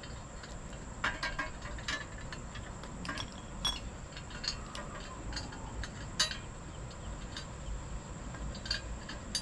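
Light metallic clicks and taps at an irregular pace, from tools and metal parts being handled while an oxygen sensor is threaded into a new motorcycle exhaust.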